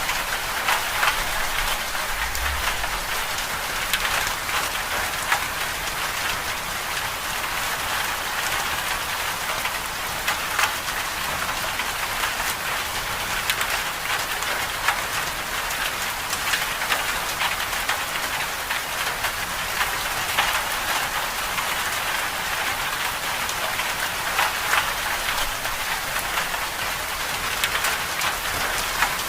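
Winter storm ambience: a steady hiss of falling precipitation, with many small sharp ticks of impacts on a surface.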